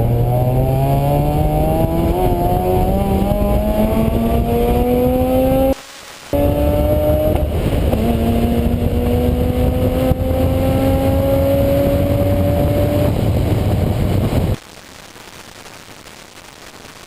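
A vehicle engine under acceleration, its pitch climbing steadily, then picking up again after a brief gap and climbing once more. The audio drops out for about half a second around six seconds in and cuts abruptly to a quiet hiss near the end, the kind of recording fault the GoPro sound problem refers to.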